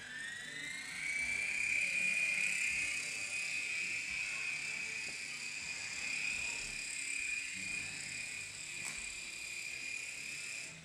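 Small electric motor of a toy helicopter whining as its rotor spins up. The pitch rises over the first second and a half, then holds steady until it cuts off near the end.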